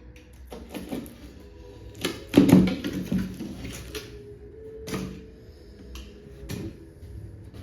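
Handling noises while a shipping box is unpacked: irregular knocks, clatter and rustling, with the loudest cluster of bumps about two and a half seconds in and a few single knocks later.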